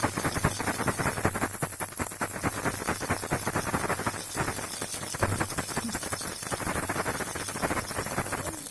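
Baby rattle shaken without a break: a dense, rapid, even rattling of small clicks, with a faint steady low hum underneath.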